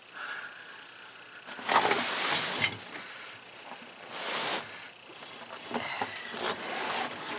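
Spare tire on its steel rim being wrestled over, with scraping and clunking and a few metallic clinks. The two loudest scrapes come about two seconds in and again about four and a half seconds in.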